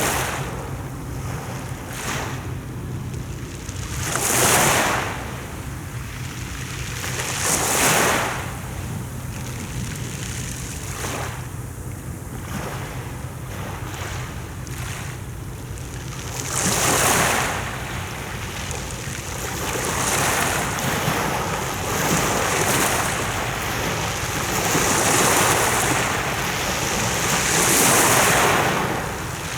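Sea waves breaking on the shore, the surf swelling and falling back every few seconds and coming more often in the second half. A steady low rumble of wind on the microphone lies underneath.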